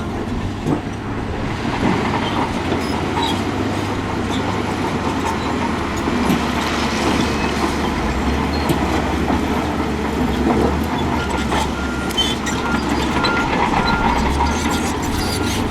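Bulldozer at work: its diesel engine runs steadily, with scattered metallic clanks and rattles from its steel tracks.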